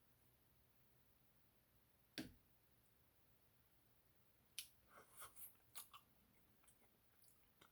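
Near silence broken by faint eating sounds from a cooked squirrel leg: one sharp click about two seconds in, then a handful of small clicks and mouth smacks a little past halfway.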